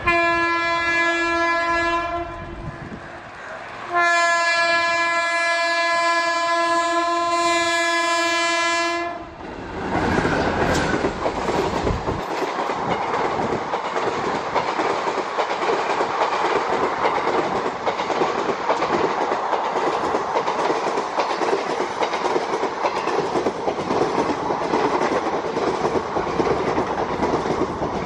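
Indian Railways locomotive horn sounding twice, a short blast and then a long one of about five seconds. The express train then passes at speed, its coaches' wheels clattering and rumbling over the track without letup.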